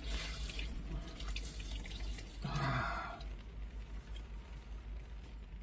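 Cold water splashing and dripping as a person washes their face by hand, with a brief louder splash about two and a half seconds in.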